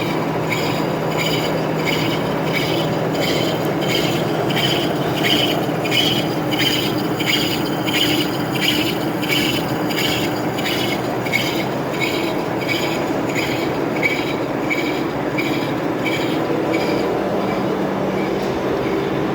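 Metal-turning lathe running, with a steady hum and a metallic scraping that pulses about one and a half times a second.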